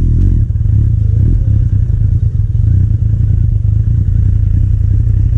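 Kawasaki Z800's inline-four engine running through an aftermarket Akrapovič carbon exhaust while the bike is ridden, a loud, steady low sound.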